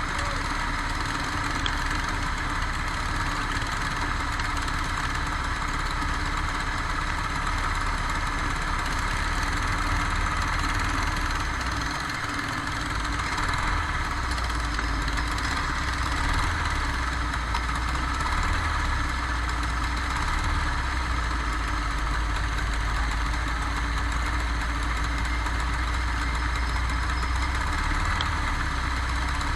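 Go-kart engine running at a steady pitch, heard onboard, with a rushing noise over it; a deeper low rumble comes in about halfway through.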